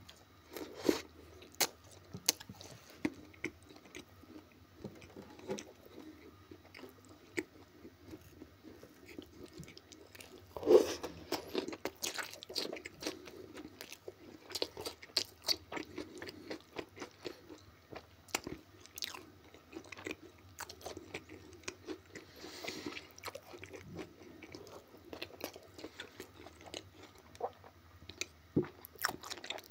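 Close-miked eating sounds: a man biting and chewing, first a piece of baked pizza, then forkfuls of Korean-style stewed pig ears and fried potatoes, with irregular crunchy bites and wet chewing throughout and one louder crunch about eleven seconds in.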